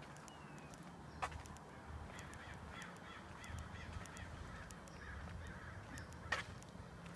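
Birds calling in a quick series of repeated notes, about three a second, for several seconds in the middle. Two sharp clicks, the loudest sounds, come about a second in and near the end.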